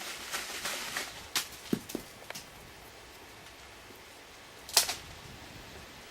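Walnuts dropping out of a shaken tree and hitting the ground: a scatter of sharp knocks and thuds in the first couple of seconds, then one louder hit near the end.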